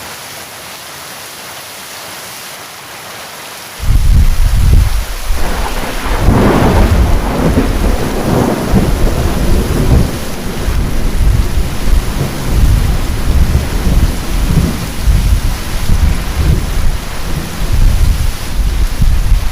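Heavy rain falling steadily, then about four seconds in a thunderclap breaks in suddenly and keeps rolling as a loud, deep rumble, with its sharpest crack a few seconds after it starts.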